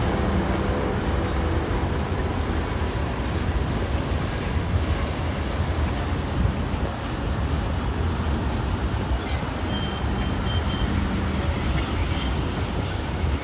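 Steady rumbling vehicle noise, like road traffic or a running vehicle, with most of its weight low down.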